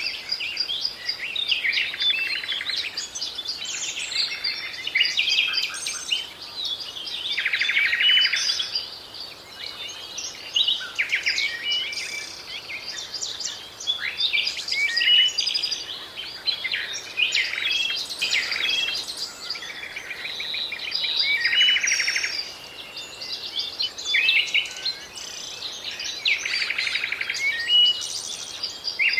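A chorus of birds singing and calling over one another: a dense stream of chirps and whistles, with a fast buzzy trill coming back every several seconds.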